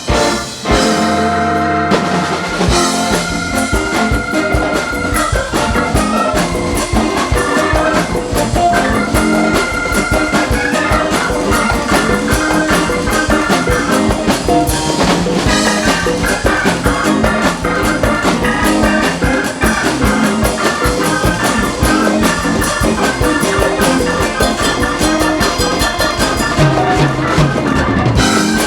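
Live band playing an instrumental passage: a drum kit keeps a steady beat under held lead notes and full accompaniment.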